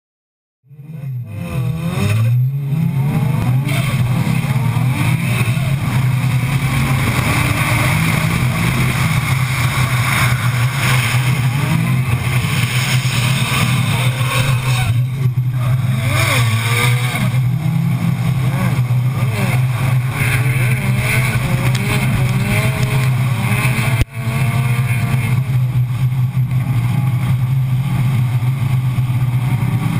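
A Nissan drift car's RB25/30 straight-six running hard through a drift run, recorded on board, its revs rising and falling continuously. The sound breaks off briefly about 24 seconds in, then carries on.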